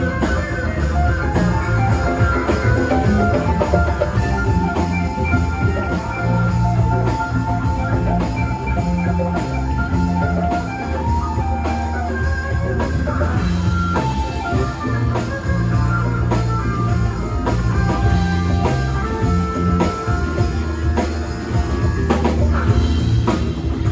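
Live rock band playing an instrumental passage: electric guitar lines over bass and a steady drum kit beat.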